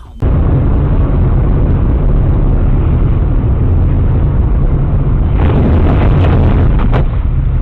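Loud, steady, distorted vehicle rumble, heavy in the low end, that starts abruptly. A brief surge of hiss comes about five and a half seconds in.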